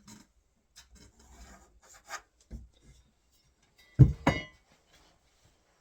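Light scraping and rubbing of a pencil and set square worked across the wooden door edge, then two sharp knocks in quick succession about four seconds in.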